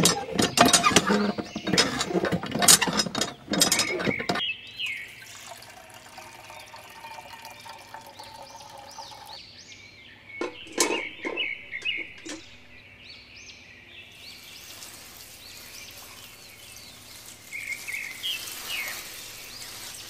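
Miniature toy hand pump being worked: a fast clatter of its handle for about four seconds while water splashes into a small tin bucket. Quieter water trickling and pouring follows.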